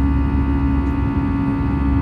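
Airbus A320 engines heard from inside the passenger cabin in flight: a steady low rumble with a constant hum and a set of even, high whining tones above it.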